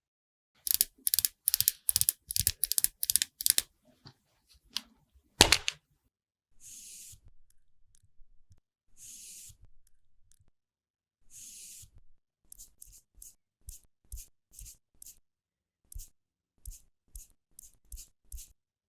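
Close-up sounds of makeup being worked onto a watermelon's rind. A quick run of loud scratchy strokes comes first, then a sharp click. Three separate hissing sweeps follow, then a run of short light taps, about one or two a second.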